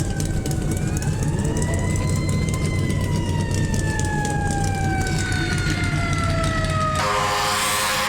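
A siren wailing slowly: its pitch rises about a second in, then falls steadily. Underneath runs a steady low engine rumble, and a short burst of hiss comes near the end.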